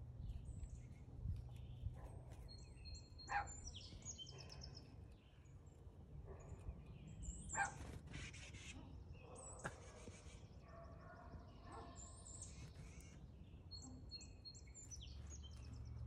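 Outdoor birdsong: several songbirds chirping and trilling in short high phrases over a steady low rumble, with two brief louder sounds about three and seven and a half seconds in.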